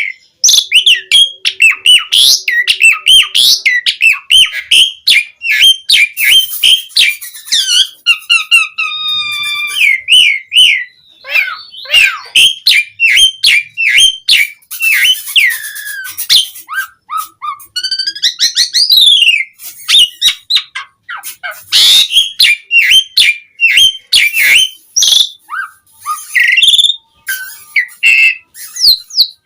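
Asian pied starling (jalak suren) in full, continuous song: a rapid, varied stream of whistles, chirps and rising and falling notes, with harsh rasping bursts mixed in now and then.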